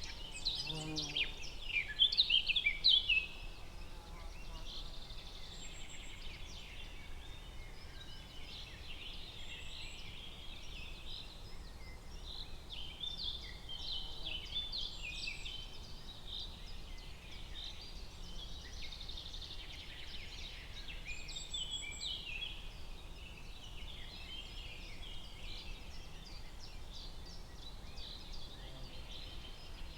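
Forest ambience of many songbirds chirping and trilling together in a continuous chorus, loudest about two to three seconds in, with a brief lower call near the start.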